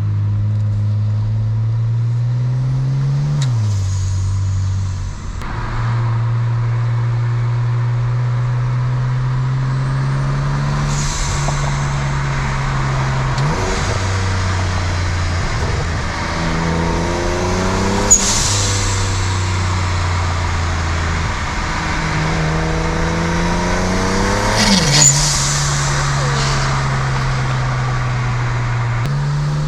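BMW 335's big-single-turbo straight-six accelerating through the gears on its new resonator-and-muffler exhaust, the engine note climbing steadily in each gear and dropping sharply at each of about four upshifts. A short sharp burst comes at two of the shifts.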